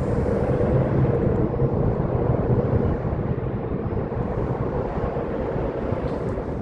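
Steady drone of diesel locomotive engines on an approaching freight train, a low hum with a higher tone running over it, rising sharply at the start.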